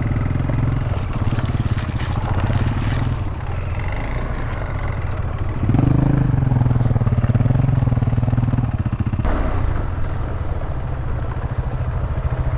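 Single-cylinder dual-sport motorcycle engine running at low trail speed through mud and slush. The throttle opens up about six seconds in, then eases off again some three seconds later.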